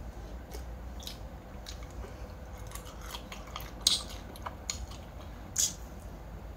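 A person eating raw sea crab, chewing and biting with scattered short sharp cracks. The loudest cracks come about four seconds in and again a second and a half later.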